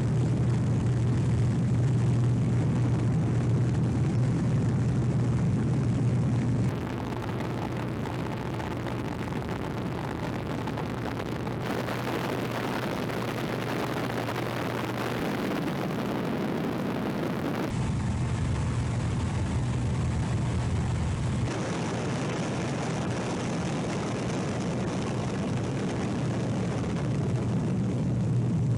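Steady drone of a small propeller aircraft's engine heard from inside the cabin, a low hum over a noisy rush, which shifts abruptly in level and tone several times as shots are cut together.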